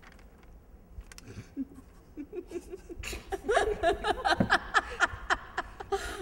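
People laughing: soft chuckles about two seconds in that break into loud, rhythmic laughter about a second later.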